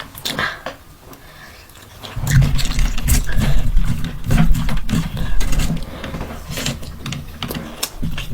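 Close-miked eating sounds: loud, wet chewing and mouth noises with crackly clicks as mutton and rice are munched. They start about two seconds in and ease off near the end.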